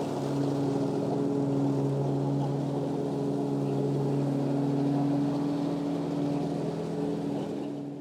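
Ride-on lawn mower's small petrol engine running steadily, now back in working order after a fuel-system repair.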